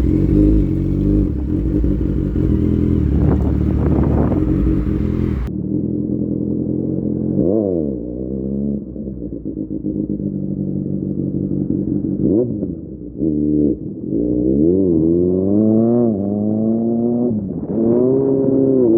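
Kawasaki Z800's inline-four engine running through an Austin Racing full-system exhaust while the bike is ridden. It holds a fairly steady note for the first few seconds. It then accelerates in several pulls, each rising in pitch and dropping sharply at a gear change.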